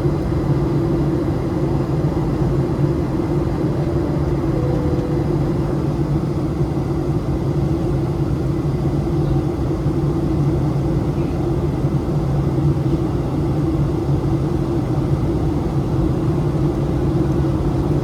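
Steady cabin noise inside a Boeing 737-700 in flight: a constant rumble of its CFM56 jet engines and airflow, with a steady low hum.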